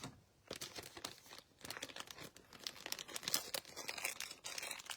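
A wrapper being crinkled and torn open, many quick irregular crackles.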